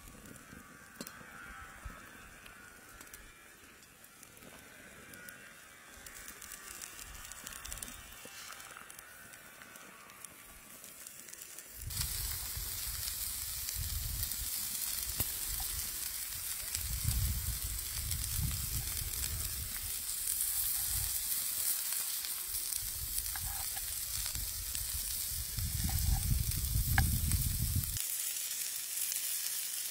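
Egg-and-cheese pizza base sizzling in a hot pan. The sizzle is faint at first and much louder from about twelve seconds in, with a low rumble swelling and fading under it.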